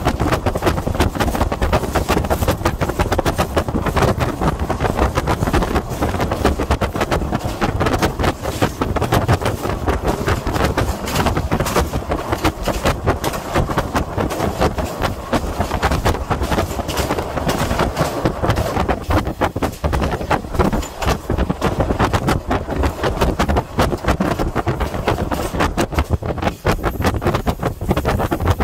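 Train running at speed, heard from on board: a steady loud rumble of wheels on rail with dense rapid clattering, crossing a long railway bridge.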